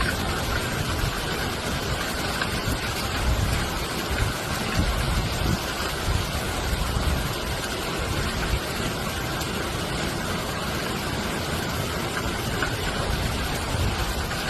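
Rain falling steadily, an even hiss with an uneven low rumble underneath.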